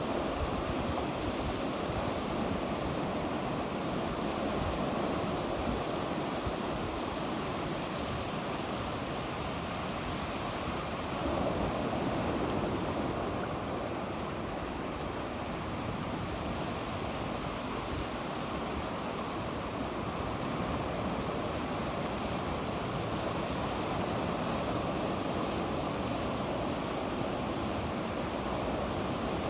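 Sea waves breaking and washing on the shore, a steady rushing with a slight swell about eleven seconds in, with some wind on the microphone.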